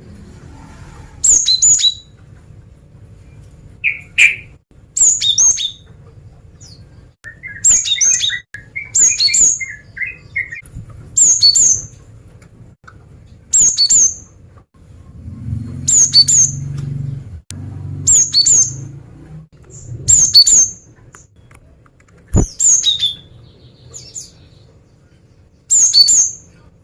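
Female cinereous tit (gelatik batu) calling: short, sharp, high chirps in quick groups of two or three notes, repeated every one to three seconds. A female's calls like these draw in males.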